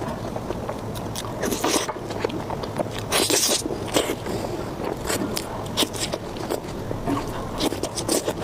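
Close-miked eating: someone biting and chewing food, heard as a run of short, sharp mouth clicks with a longer crunchy stretch about three seconds in.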